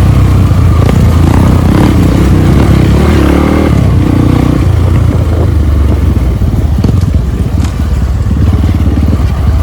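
Trail motorcycle engine running loud, its revs rising and falling in the first half as it is ridden.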